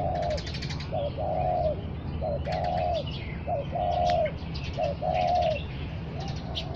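A dove cooing over and over, each call a short note followed by a longer one, about once a second. Small birds chirp and twitter above it, with a steady low hum underneath.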